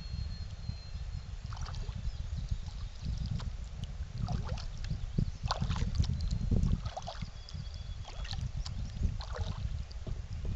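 Kayak paddle blades dipping and splashing in lake water, an uneven stroke about every second, over a steady low rumble.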